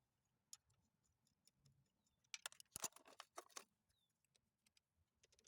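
Light clicking and clinking of small metal transmission parts being handled, with a quick cluster of sharp clicks in the middle.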